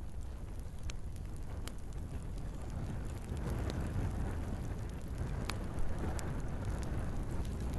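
Log fire burning in a fireplace: a steady low rumble of flames with scattered sharp crackles and pops of burning wood.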